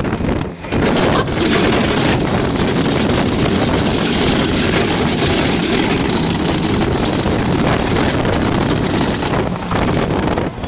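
Heavy machinery engine running steadily, with wind buffeting the microphone; the sound dips briefly about half a second in and again near the end.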